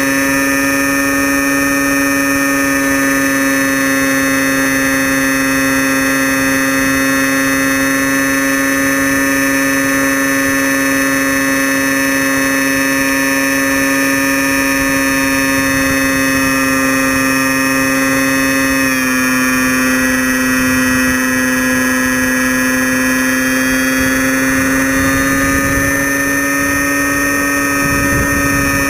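Crashtesthobby Storm Chaser RC plane's electric motor and propeller running under power, heard from the camera mounted on the plane: a loud, steady whine that drops slightly in pitch about two-thirds of the way through and eases off at the very end.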